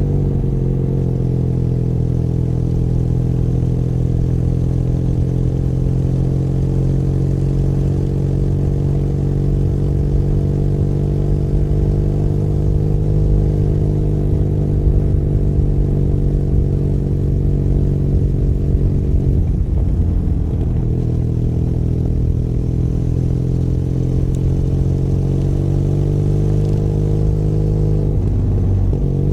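Benelli Leoncino 500 Trail's 500 cc parallel-twin engine running under way at fairly steady revs, the pitch drifting slowly. The engine note breaks briefly and changes pitch about twenty seconds in and again near the end, as gears are changed.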